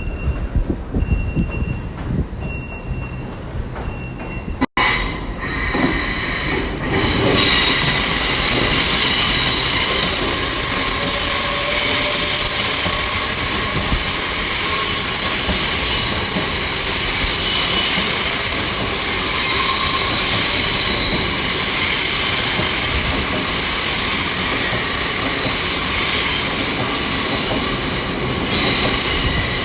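Class 387 electric multiple unit running slowly into the platform with a loud, steady, high-pitched wheel squeal that starts about five seconds in and eases near the end. Before it, a faint high beep repeats about once a second.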